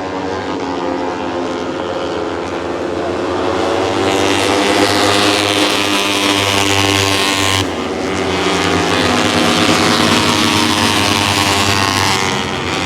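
Moto3 racing motorcycles' 250cc single-cylinder four-stroke engines running at high revs as the bikes go by, with rising pitch through the gears. The sound swells about four seconds in, drops off suddenly about halfway, then builds again.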